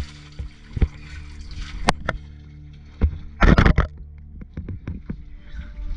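Splashing and knocks of a caver moving through the water of an underground river, with a loud cluster of splashes about halfway through, over a steady low hum.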